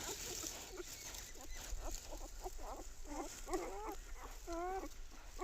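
A puppy whining: a run of short, squeaky calls that bend up and down in pitch, coming thicker in the second half.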